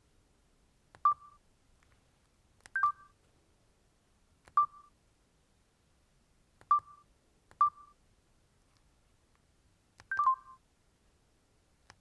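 Samsung GT-E3300 mobile phone key-press beeps: six short electronic beeps, each starting with a click, at irregular intervals as its buttons are pressed.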